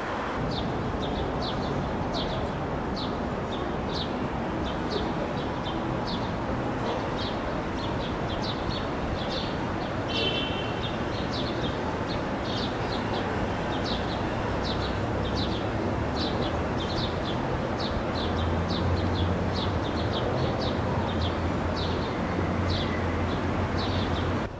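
A small bird chirping over and over, short high chirps about two a second, against a steady outdoor background noise. A low hum grows in during the last few seconds.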